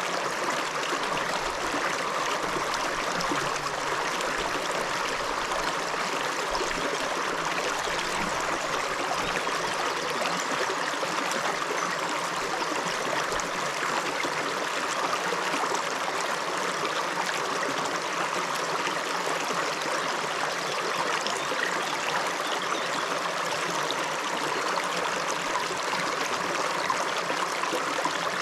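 A river running over rocks, a steady rushing and burbling of water with no let-up.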